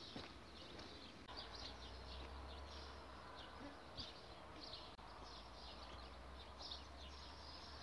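Small birds chirping and twittering, many short faint calls, over a low steady rumble that comes in about a second in.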